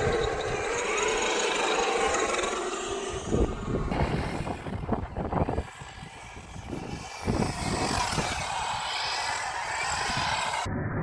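Brushless electric motor of a Losi Baja Rey 1/10 RC trophy truck whining, rising and falling in pitch, with a run of knocks in the middle. The sound changes abruptly about four seconds in, at a cut between takes.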